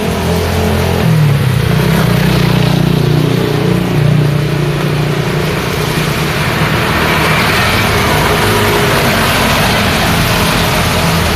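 Road traffic in the rain: a vehicle engine runs with a strong low hum for the first few seconds, then eases off. A steady hiss of rain and tyres on the wet road grows brighter through the second half.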